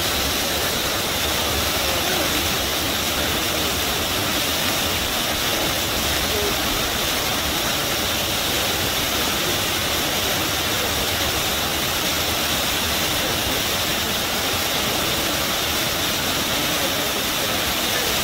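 Rushing river water, a steady gushing roar with no change in level.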